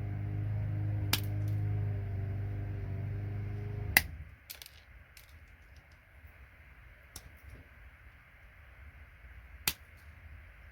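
A steady machine hum that cuts off with a sharp click about four seconds in, followed by a few isolated sharp snaps, typical of side cutters snipping through connector pins.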